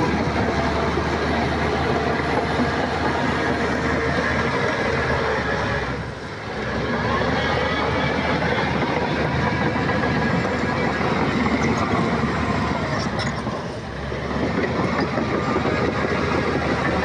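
Shantui crawler bulldozer at work: its diesel engine runs steadily with the clatter of its tracks, easing off briefly about six seconds in and again near fourteen seconds.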